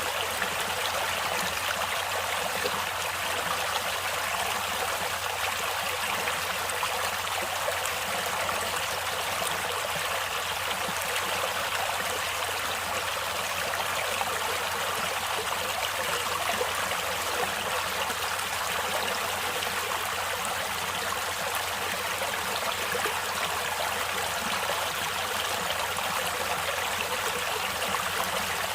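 Steady flowing water of a stream or river running over rocks, an even rushing and trickling without breaks.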